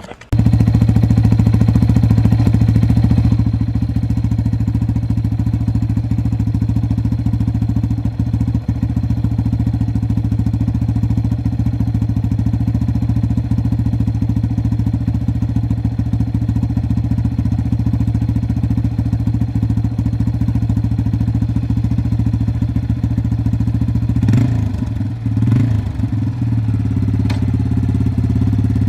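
Yamaha TT-R230 dirt bike's single-cylinder four-stroke engine running steadily at a constant speed, cutting in suddenly at the start. About 24 seconds in, the pitch wavers briefly before it settles again.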